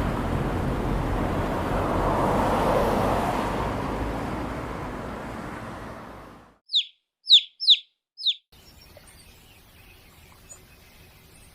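A steady rushing noise fades away over about six seconds. After a brief silence a small bird chirps four times in quick, falling notes, followed by faint scattered bird chirps.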